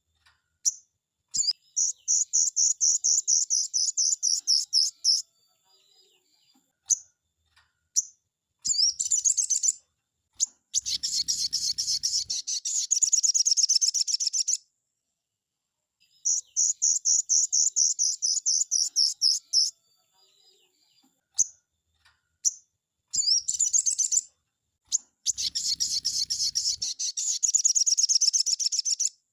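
Crimson sunbird (kolibri sogon) song: several bursts of fast, high-pitched rattling trills, each about 1 to 4 seconds long, with short pauses between them.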